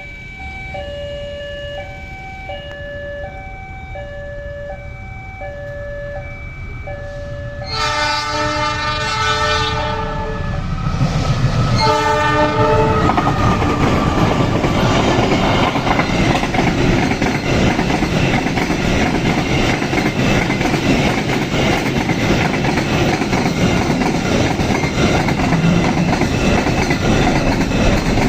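A two-tone electronic warning alarm alternates high and low steadily, typical of a railway level crossing. About eight seconds in, the freight train's locomotive horn sounds a long blast and then a shorter one, and the train passes with a loud rumble and the clickety-clack of wheels over rail joints.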